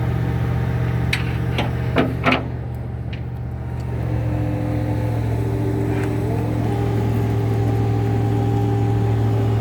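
Tow truck's engine running steadily while its hydraulic lift is worked. Four sharp metallic clanks come between one and two and a half seconds in. From about four seconds a steady whine joins the engine, and it steps up in pitch a little past six seconds.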